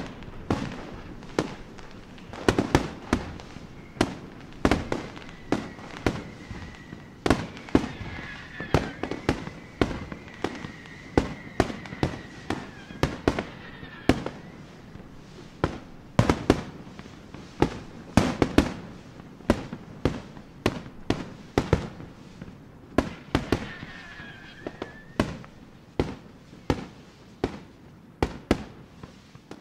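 Distant fireworks display: an irregular run of sharp bangs, one or two a second, each with a short echoing tail.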